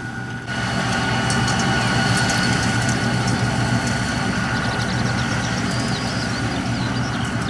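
Kubota diesel tractor engine running steadily with a thin high whine above it, getting louder about half a second in.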